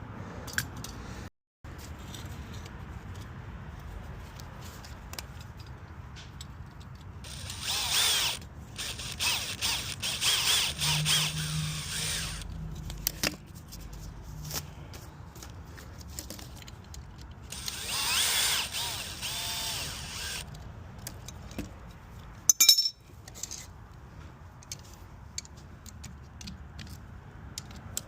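A power drill/driver runs in two bursts of several seconds each, turning fasteners during a furnace blower motor swap. A sharp click follows a couple of seconds after the second burst.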